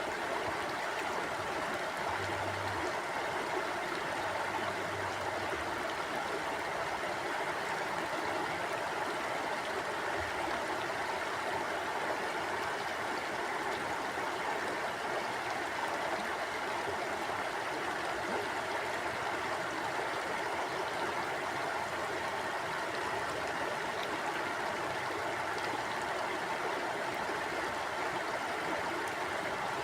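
Mountain stream flowing and burbling over rocks, a steady rush of water with no break.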